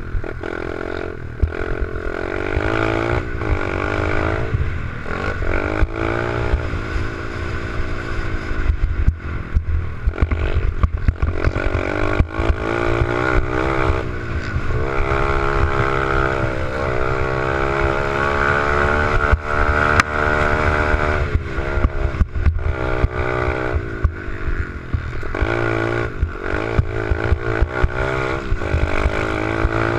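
88cc pit bike engine being ridden, revving up and dropping back again and again, its pitch rising and falling every few seconds, with clattering over the top.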